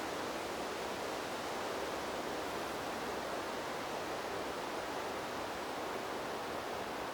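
Wind blowing through trees as a steady, even rushing noise, with no gusts or rises.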